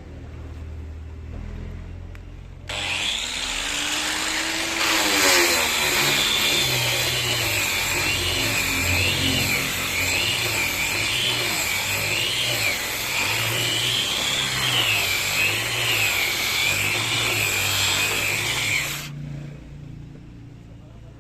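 Electric power tool starting up a few seconds in, its motor whine rising as it spins up. It then runs loud and steady, its pitch wavering as if working into wood, and shuts off a couple of seconds before the end.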